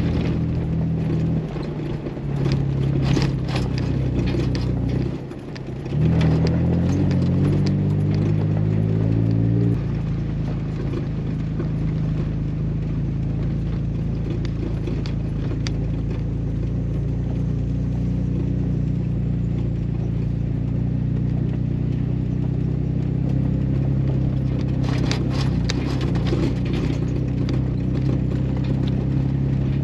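Jeep Wrangler driving slowly on a gravel road: the engine runs steadily, dipping briefly about five seconds in and then coming back higher before it settles. Tyres crunch and clatter over gravel, most busily in the first few seconds and again near the end.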